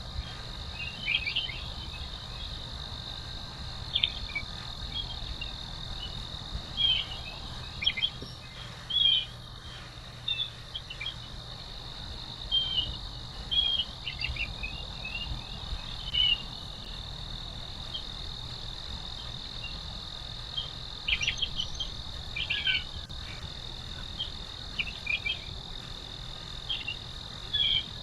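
Crickets or similar insects trilling steadily at one high pitch, with short bird chirps breaking in irregularly throughout as the loudest sounds, over the low rush of a stream.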